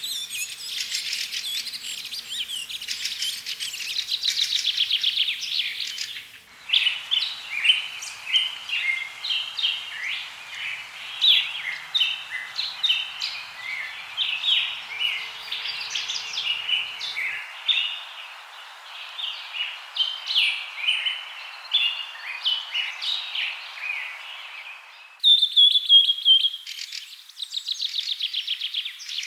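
Birds chirping and singing, with many quick chirps and trills. The sound changes abruptly twice, like separate recordings joined. In the middle stretch the chirps sit over a steady hiss.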